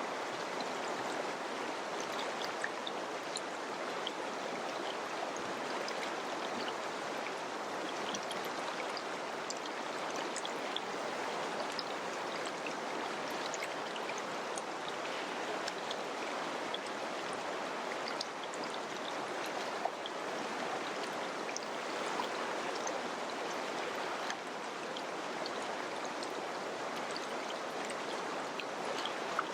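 Mountain river rushing steadily over rocks, a constant even flow with small splashes and gurgles.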